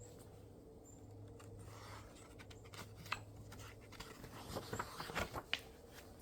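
Pages of a picture book being handled and turned: a run of soft paper rustles and small clicks in the second half, over a faint steady hum.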